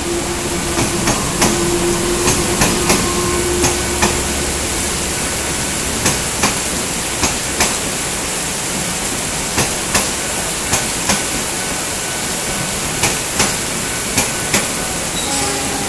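Electric commuter train rolling past, its wheels clacking over a rail joint in quick pairs, bogie after bogie, over the steady hiss of heavy rain. A steady tone with a low hum sounds for the first four seconds or so.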